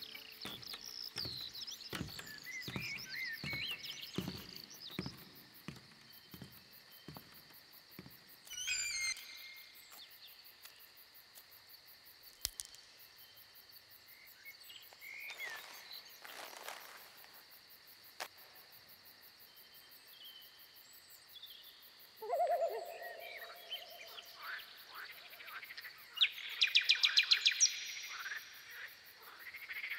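Forest ambience with birds chirping and calling. In the first nine seconds there is a run of evenly paced footsteps climbing wooden and metal stairs. Near the end comes a fast series of high clicking notes.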